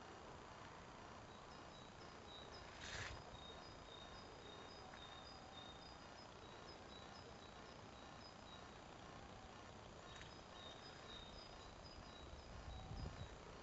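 Quiet outdoor ambience: a steady hiss with small birds calling in short, high chirps again and again. A brief burst of hiss comes about three seconds in, and a low rumble near the end.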